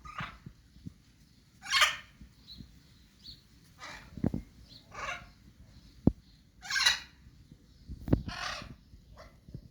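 An animal giving a series of about six short, harsh calls, each under half a second and spaced a second or so apart, with a few soft knocks in between.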